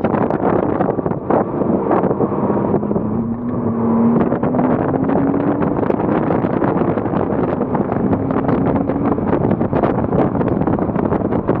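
Heavy wind buffeting the microphone over a 2007 Porsche Cayman S's 3.4-litre flat-six engine at speed. The engine's pitch rises steadily for a few seconds near the middle as the car accelerates.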